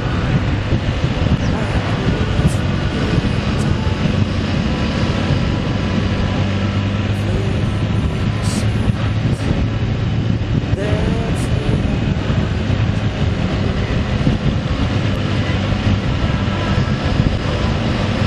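Motorcycle engine running at a steady cruising speed under heavy wind and road noise, heard from on board while riding. A steady low hum holds throughout.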